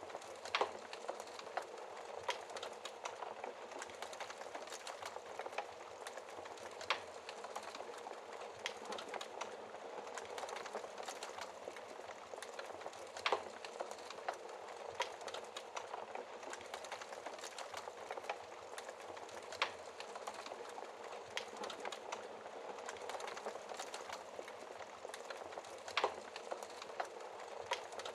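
Wood fire burning in a fireplace: a steady soft hiss of flames dotted with frequent small crackles, and a louder sharp pop about every six seconds.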